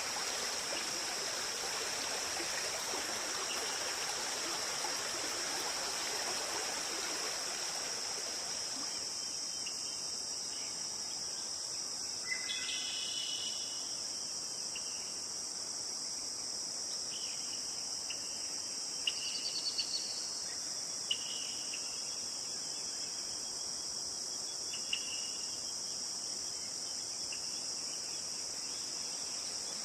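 Rushing river stream under a steady high-pitched insect chorus. About nine seconds in the water sound drops away, leaving the insects and a few short bird calls.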